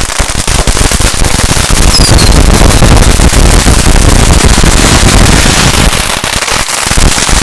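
Firecrackers going off in a dense, continuous crackle of overlapping pops, loudest with a heavy low rumble through the middle, and a brief falling whistle about two seconds in.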